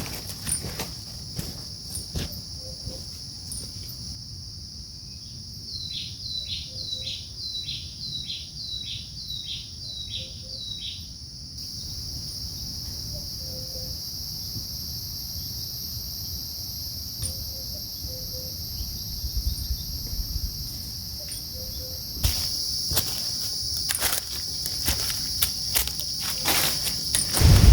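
Night insect chorus, crickets or similar, a steady high-pitched shrill. About six seconds in comes a quick run of about ten short chirps that slide downward, two or so a second. Footsteps and rustling come near the start and again near the end.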